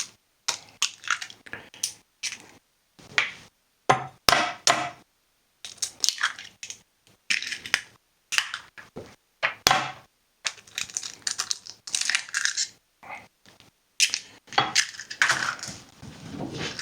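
Irregular kitchen handling noises: short scrapes, clinks and knocks of utensils and cookware against each other and the countertop, with brief pauses between them.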